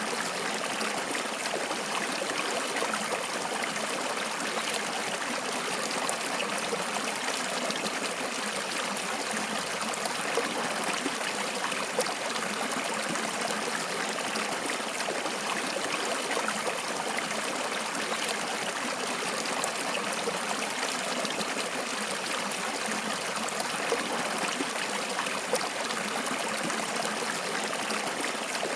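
Stream water flowing and trickling steadily, a continuous splashing rush with small splashes scattered through it.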